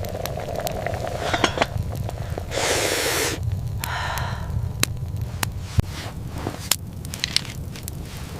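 Scattered sharp clicks and crackles over a steady low rumble, with a short loud rushing noise near the middle and a softer one just after.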